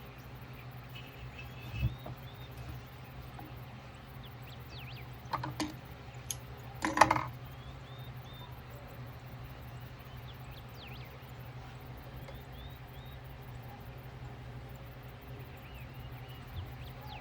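A few small clinks and knocks of sewing clips and tools handled on a work table, the loudest about seven seconds in. They sit over a steady low hum, with faint birdsong chirping in the background.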